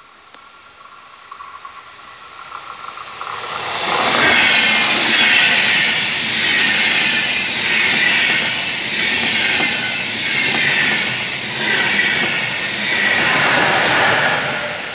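Deutsche Bahn InterCity passenger train passing at speed over a level crossing. The sound swells over the first few seconds as it approaches, stays loud with a repeating clatter of wheels as the coaches go by, and begins to fade near the end.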